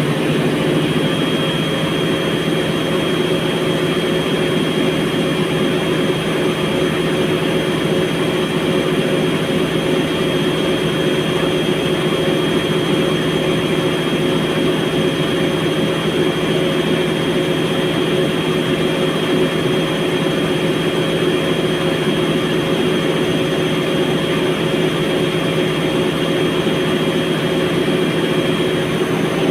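Fagor washing machine's drum spinning at high speed in its spin cycle, its motor driven by a Delta MS300 variable-frequency drive. The motor runs steadily with a thin high whine over a loud hum.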